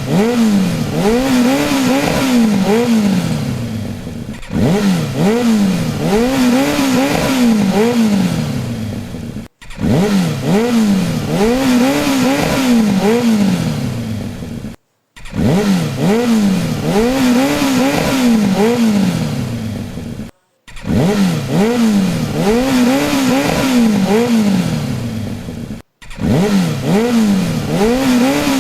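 Toy car's engine sound, a pitched whine sweeping up and down about once a second like repeated revving. It plays in stretches of about five seconds, broken by brief silences.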